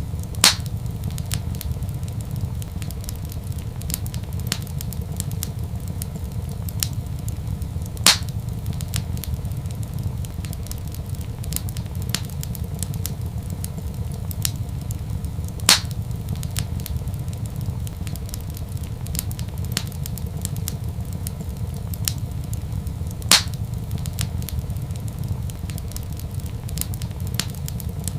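Wood fire crackling: many small crackles and four louder sharp pops several seconds apart over a steady low rumble.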